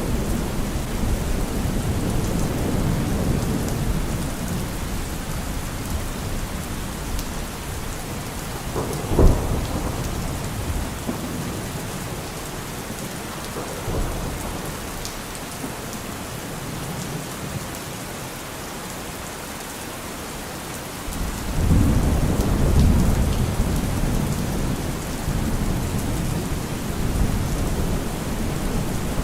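Steady rain falling through a thunderstorm, with rolling thunder. The rumble dies away through the middle, a sharp thunder crack comes about nine seconds in, and a new long rumble breaks out about twenty-one seconds in.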